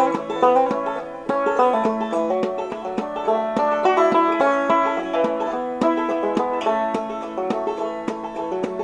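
Five-string banjo played clawhammer style: a steady run of brightly plucked notes and strummed brushes, the instrumental lead-in to a slow folk song.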